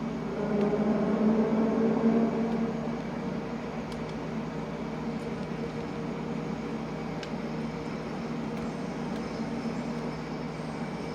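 London Underground train running with a steady rumble and hum, louder for the first couple of seconds and then settling, with a few faint clicks.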